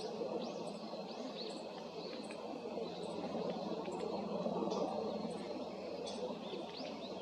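Male Daurian redstart calling: short, thin, high notes repeated about once a second, over a steady low background rumble.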